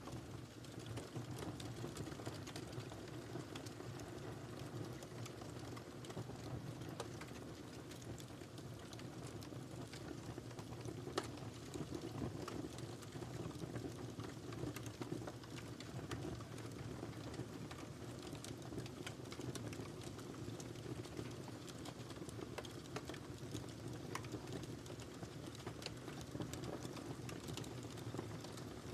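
Wood fire burning in a fireplace: a steady low rumble of flames with frequent small crackles and pops, one sharper pop about eleven seconds in.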